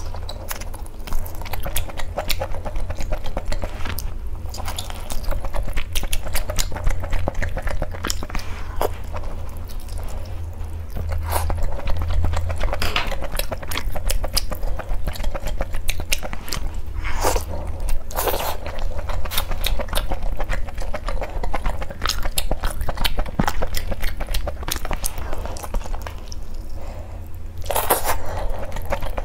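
Close-miked eating of deep-fried tripe-wrapped meat balls: biting, crunching and chewing, with the fried pieces pulled apart by hand, heard as a dense run of irregular crisp clicks.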